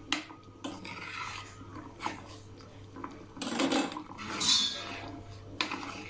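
Spoon stirring sugar syrup in a pan, with scattered clinks and scrapes against the metal and a brief high squeak about four and a half seconds in.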